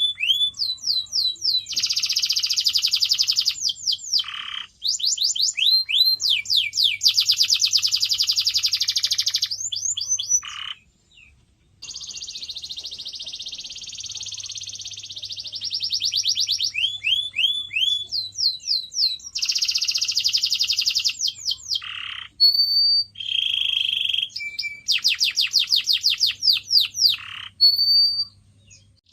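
Domestic canary singing a long song of rapid trills: fast runs of repeated rising notes and dense buzzy rolls in several phrases, with brief pauses about four and eleven seconds in.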